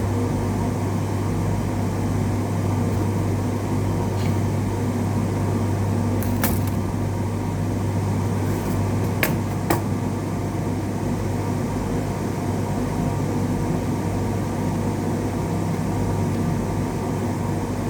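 Steady electrical hum of workbench equipment, with a few light clicks and taps of tools.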